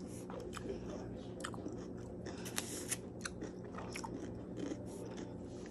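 A person chewing a mouthful of cucumber and tomato salad close to the microphone, with crisp crunches scattered irregularly through, over a low steady hum.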